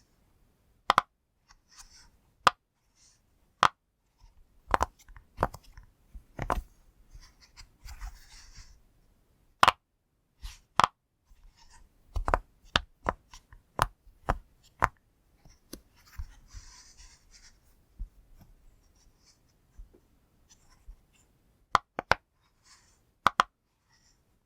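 Silicone push-pop fidget toy being pressed, giving sharp, separate pops at an uneven pace, some in quick runs of two or three, with soft rubbing of fingers on the silicone between them.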